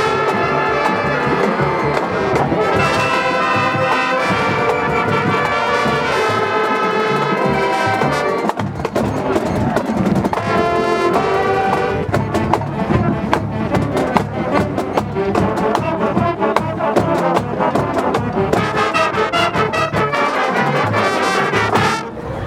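High school marching band playing: brass sections hold loud chords, then the drumline's hits grow dense under the brass through the second half. The music cuts off sharply near the end.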